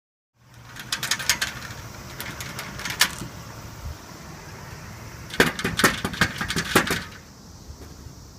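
Washing machine being handled and moved: clusters of sharp knocks and rattles over a steady low hum, about a second in, again around three seconds in, and a denser run from about five and a half to seven seconds in.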